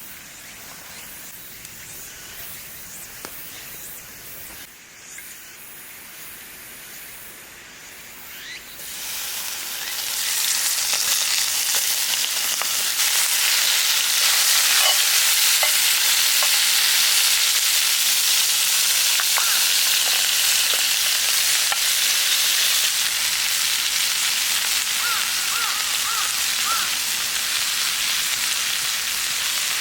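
Food frying on a hot pan over a campfire: a low sizzle that swells into loud, steady sizzling about nine seconds in, as food meets the hot metal.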